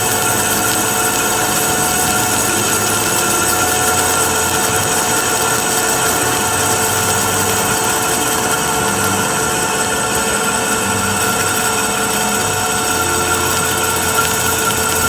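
A machine tool, of the kind used for drilling and boring metal, running steadily with a constant whine of several steady tones.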